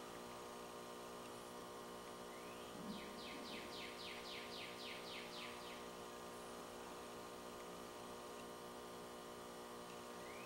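Steady electrical hum, with a bird's trill of about a dozen quick notes, some four a second, from about two to five seconds in.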